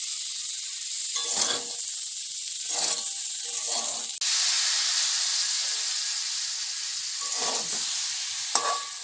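Cauliflower and potato frying in a metal kadhai with a steady sizzle, while a metal spatula scrapes the pan in a few short strokes as the vegetables are stirred. The sizzle gets louder about four seconds in.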